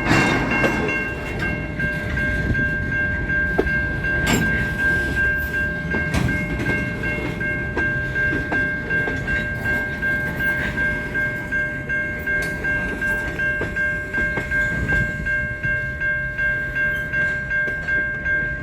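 Freight train rolling past with a rhythmic wheel clatter, under a steady high-pitched ringing tone held throughout that cuts off suddenly at the end.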